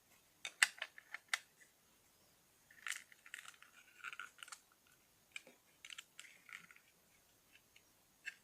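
Small plastic LEGO pieces handled, with sharp clicks and clatter. There are a few crisp clicks in the first second and a half, a stretch of rattling and rummaging around three to four and a half seconds in, then more scattered clicks.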